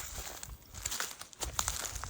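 Dry leaf litter and twigs on a forest floor crackling and rustling in short, irregular crackles, as they are trodden or handled.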